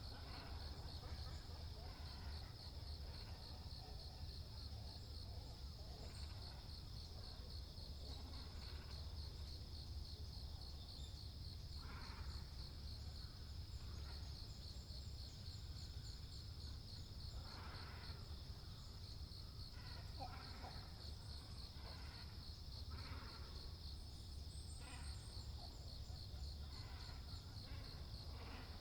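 Great cormorants and herons calling: scattered short, rough, croaking calls, more frequent in the second half. Under them runs a steady high-pitched pulsing insect trill and a low rumble.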